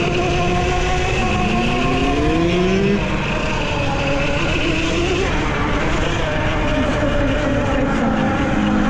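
Gas dirt bike engines revving on a motocross track, one rising in pitch as it accelerates about a second in, over heavy wind noise on the microphone of a moving bike.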